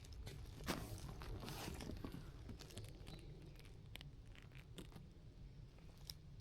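Rustling, scraping and scattered clicks of outdoor gear being handled as a tarp setup begins, over a steady low rumble of wind on the microphone.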